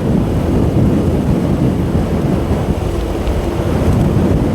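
Wind buffeting the microphone of a rider on a moving motorbike: a loud, fluttering low rumble, with the bike's running and road noise underneath.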